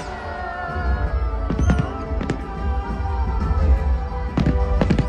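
Fireworks going off with sharp bangs, a quick pair about two seconds in and more near the end, over steady music and a low rumble.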